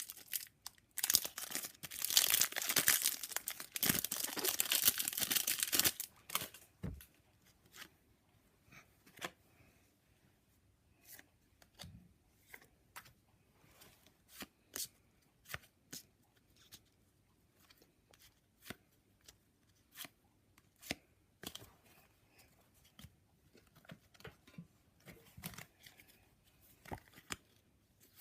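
A trading-card pack wrapper being torn open for about five seconds, followed by the cards being handled, with short light clicks about once a second.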